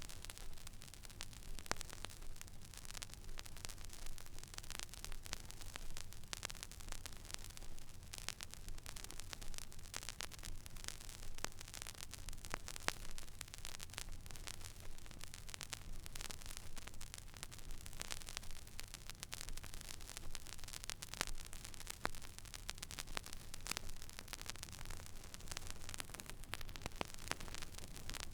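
Record player stylus riding an empty vinyl groove: a steady hiss scattered with many small crackles and pops, over a low hum.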